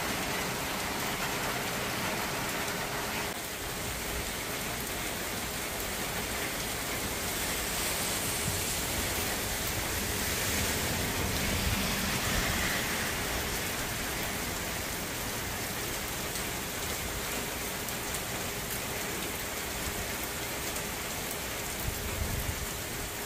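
Steady rain shower falling on pavement, lawn and parked vehicles.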